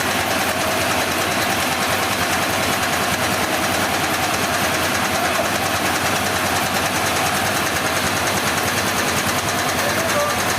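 Sawmill machinery engine running steadily: a constant mechanical drone with a fast, even pulse and no change in speed.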